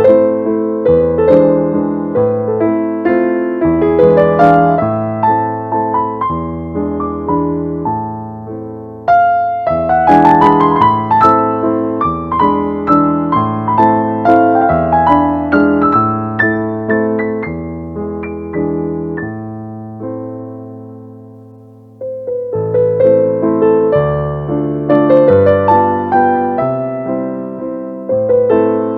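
Background piano music: a calm melody of struck notes with chords underneath, fading out briefly about two-thirds of the way in before the playing resumes.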